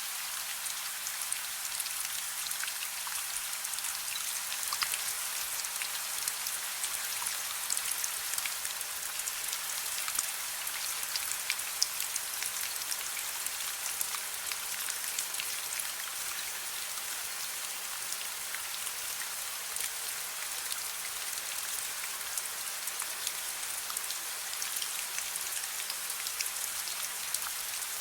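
Soft rain falling steadily, with many small individual drops ticking on a surface.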